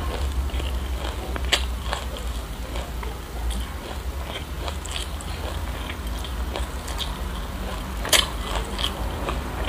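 Close-miked chewing of crunchy sesame seeds with passion fruit: a run of small crackling crunches over a steady low hum. Two sharper, louder crunches come about a second and a half in and near the end.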